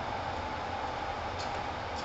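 Onboard sound of a Kintetsu 1010 series electric train: a steady hum and rush with a constant mid-pitched tone, and two faint ticks near the end.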